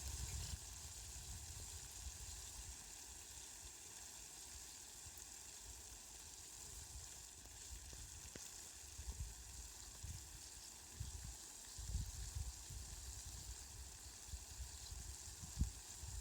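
Steady hiss of falling rain, with irregular low rumbles that come and go near the start and again in the second half.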